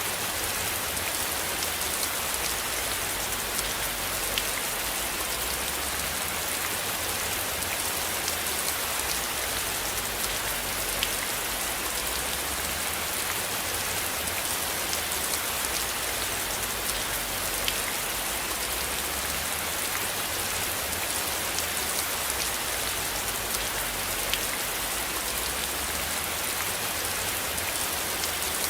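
Steady rain: a dense, even patter with scattered sharper drop hits.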